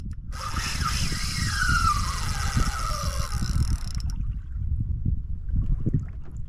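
Water sloshing and a low wind rumble around a fishing kayak, with a hiss carrying a falling whine for the first four seconds that then stops suddenly.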